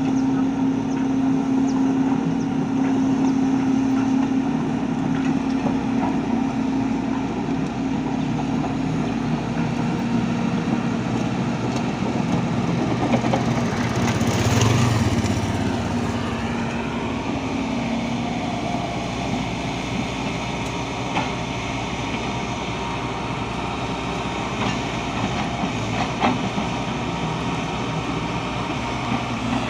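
An engine running steadily, with a steady hum that swells briefly about halfway through.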